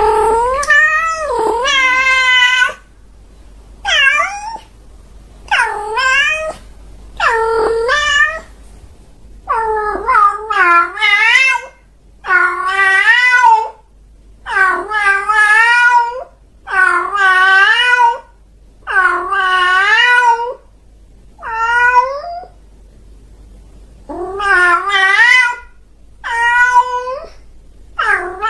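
A domestic cat meowing over and over: more than a dozen drawn-out meows, one every two seconds or so, each wavering in pitch.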